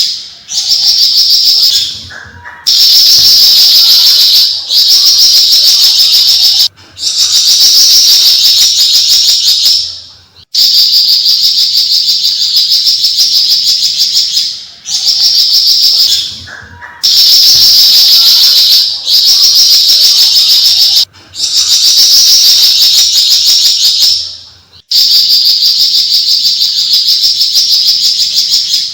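Javan fulvetta (flamboyan, Alcippe pyrrhoptera) giving its long, rapid, high chattering song (besetan) in loud bursts of a few seconds each, separated by short pauses.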